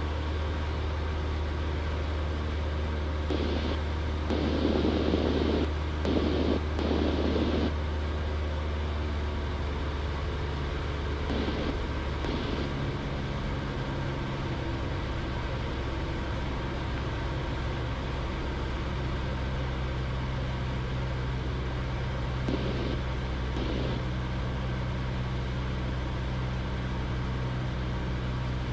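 Cessna 172's engine and propeller droning steadily in the cockpit. The drone's pitch shifts up a little about 14 seconds in and again near 19 seconds.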